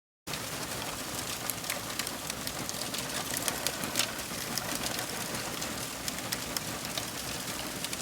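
Steady rain with many individual drops ticking sharply against nearby surfaces over a constant hiss. It starts suddenly just after the beginning.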